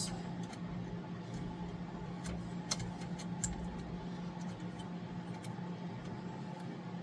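Scattered light clicks and taps of small metal parts being handled while a fuel pump and its housing are worked into place, over a steady low hum.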